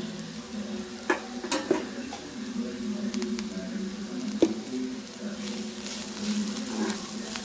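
Sliced onion, green chilli and garlic with curry leaves, turmeric and salt sizzling in hot oil in a pan as they are stirred. The spoon clicks against the pan a few times.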